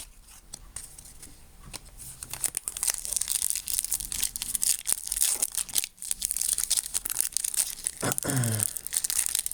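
Foil wrapper of a trading-card pack crinkling and tearing as it is pulled open by hand, with a struggle to get it open; the crackling starts about two and a half seconds in and carries on densely.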